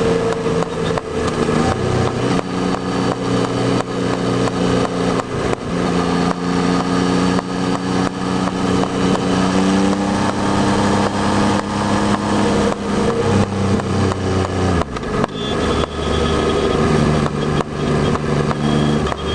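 Yamaha Tracer 9's 890 cc three-cylinder (CP3) engine running under way. Its note holds at steady revs, then jumps abruptly to new pitches several times, with a sharp drop about three-quarters of the way through.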